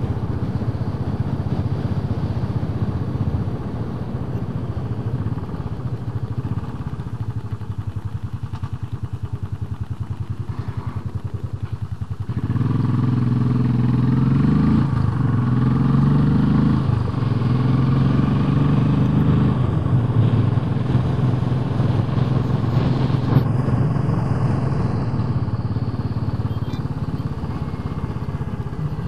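Royal Enfield Bullet 500's single-cylinder engine running on the road at low revs, then about twelve seconds in it gets louder as the bike accelerates, its pitch rising and stepping through a couple of gear changes before settling into a steady run.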